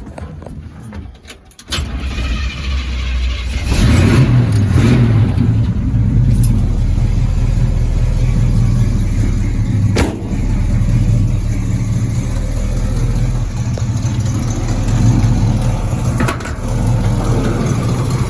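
Pontiac 455 V8 starting about two seconds in, its exhaust coming up louder a couple of seconds later, then running steadily.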